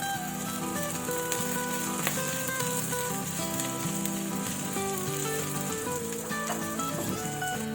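Food sizzling in a hot pan as a stir-fry cooks: a steady frying hiss, with background music playing over it.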